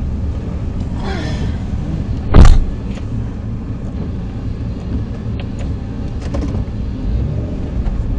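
Car engine idling, heard from inside the cabin, with a single loud thump about two and a half seconds in. The engine rumble grows louder near the end as the car moves off.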